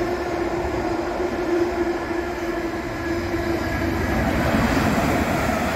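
Class 390 Pendolino electric train approaching at speed on the main line, its rolling noise building slightly in the second half. A steady low hum fades out about four seconds in.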